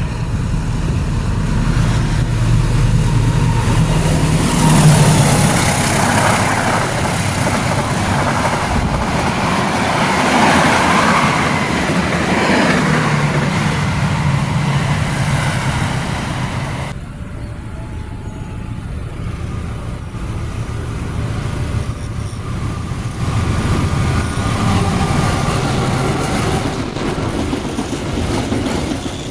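Long-distance passenger trains passing at trackside: the diesel-electric locomotive's engine and the rumble of the carriages on the rails. The sound changes abruptly a little past halfway as it cuts to another passing train.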